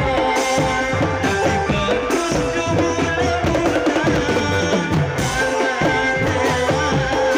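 Drum band music: a busy drum and percussion beat with a melody of held notes over it.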